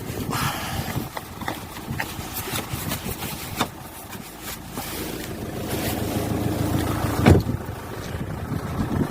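A vehicle engine running with a low rumble, with wind buffeting the microphone and scattered clicks. A sharp knock comes about seven seconds in.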